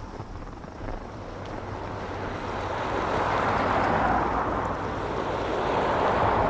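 Snowstorm wind gusting, a rushing noise that swells twice, with a steady low rumble of wind buffeting the microphone.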